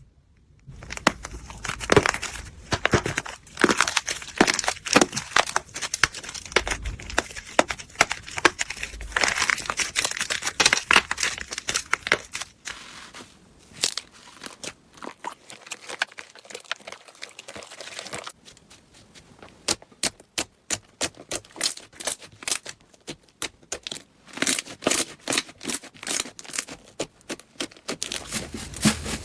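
Slime being squeezed and worked by hand, making dense crackling and popping clicks. About two-thirds of the way through, the clicks thin out into separate sharp pops before turning dense again near the end.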